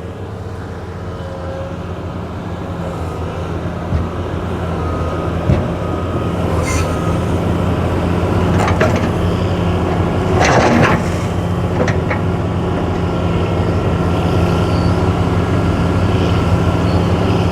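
Excavator's diesel engine running steadily and slowly growing louder, with a few sharp clanks of the bucket and rocks and a short rush of noise about ten and a half seconds in.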